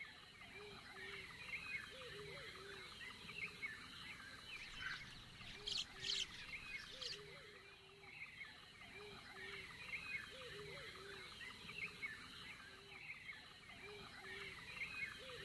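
Faint birdsong: many small chirps and calls scattered throughout, a few sharper, higher chirps about six seconds in, over a faint steady hiss.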